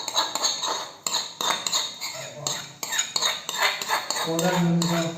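Cutlery and dishes clinking and knocking repeatedly, with a brief voice near the end.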